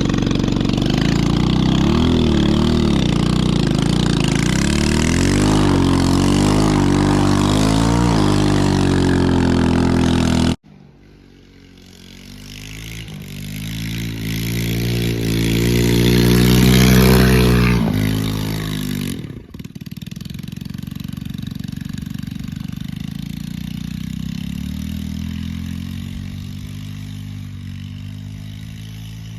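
Small 110cc ATV engine being revved hard, its pitch wavering, with a steady rush of wind noise. About a third of the way in the sound cuts off abruptly. The engine then climbs in pitch and grows louder, drops away, and runs steadily at a lower pitch for the last third.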